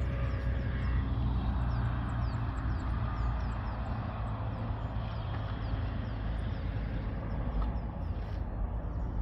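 Steady low rumble with an even wash of noise, like a vehicle running, and a run of short, high, falling chirps repeating about two to three times a second.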